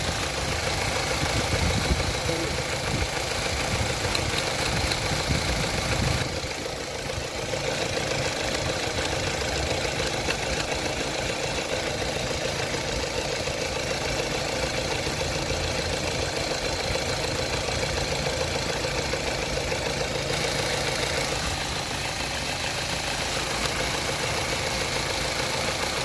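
Opel Astra H engine idling, with a clicking from the electronic throttle body. About six seconds in the low rumble drops and the overall level dips slightly, then the idle carries on steadily.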